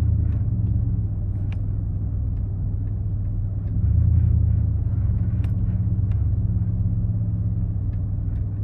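Chevrolet Silverado SS-clone pickup truck's engine and exhaust droning low while driving, heard from inside the cab. It swells louder for about a second around four seconds in, then settles back.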